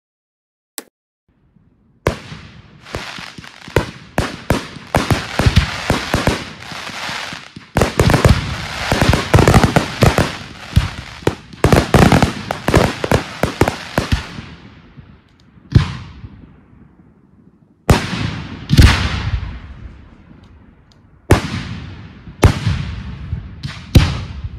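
Fireworks going off: after a near-silent start, a dense barrage of sharp bangs and crackling from about two seconds in, thinning out, then a handful of single loud bursts, each trailing off in crackle.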